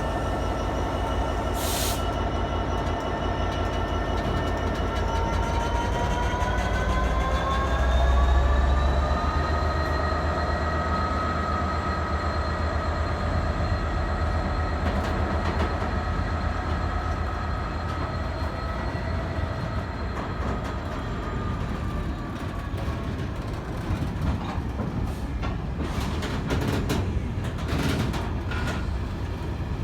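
Diesel locomotive hauling an engineers' train, its engine note rising about a third of the way through as it powers up, then holding steady and fading as it draws away. Sharp clicks from the wheels come near the end.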